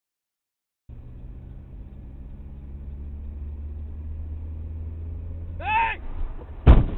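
A vehicle's engine rumbles low and steadily, starting abruptly about a second in. Near the end comes a short yell, then a loud bang of a collision followed by a few small rattles.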